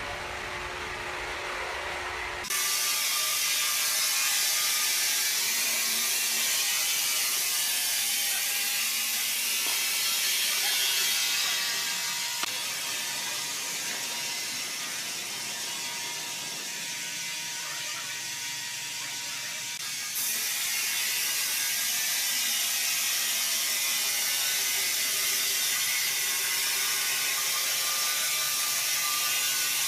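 Steady, loud mechanical rattle and hiss of wood-milling machinery at work. The sound changes abruptly about two and a half seconds in, again about eleven seconds in and again about twenty seconds in.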